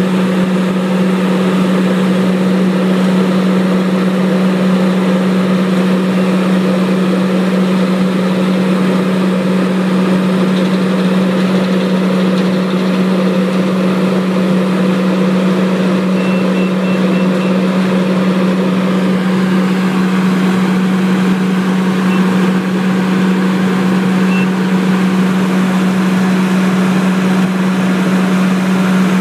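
An engine running steadily at a constant speed, with a strong unchanging hum.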